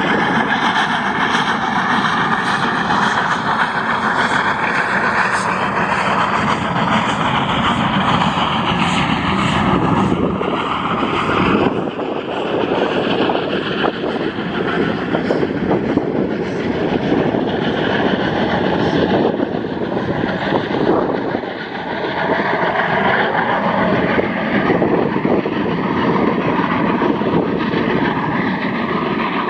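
Steam-hauled train of historic coaches rolling past close by: a loud, steady rumble of wheels on rails with a regular clicking, its sound changing about twelve seconds in.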